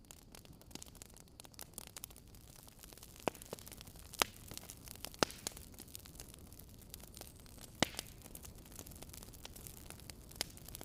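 Fireplace fire crackling over a low steady hiss, with a few louder, sharp pops spread through.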